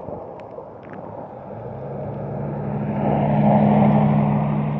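A motor vehicle drives past close by: a steady engine hum and tyre noise build from about a second and a half in, are loudest near the end, then begin to fade.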